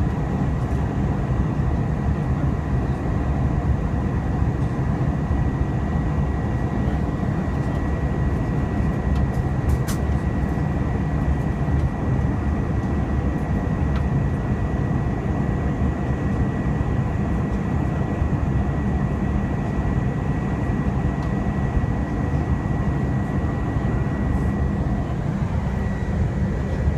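Steady cabin noise of an Airbus A320 in flight: an even, unbroken low rumble of engines and airflow, with a thin steady high tone running through it.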